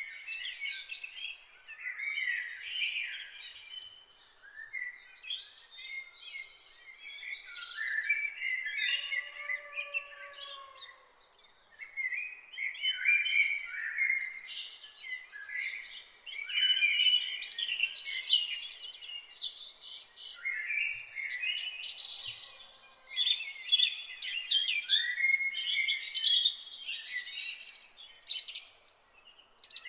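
Chorus of many songbirds singing at once: dense, overlapping high chirps, trills and whistles with no pause. A lower, drawn-out note stands out about nine seconds in.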